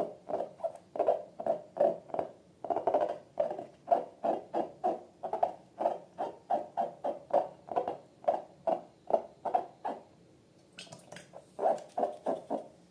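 Slime being squeezed and worked by hand, short squelches repeating about two to three times a second, with a brief pause near the end.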